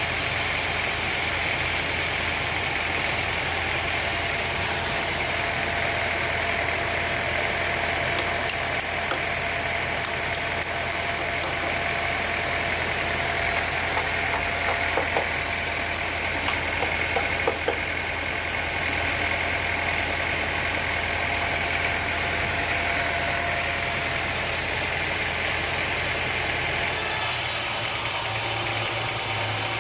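Sawmill machinery running steadily with an engine-like hum, a few light knocks about halfway through, and the low hum stepping up in pitch near the end.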